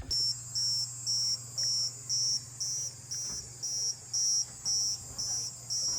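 Amazon rainforest insects calling at dusk: a high pulsed chirp about twice a second over a steady high-pitched whine.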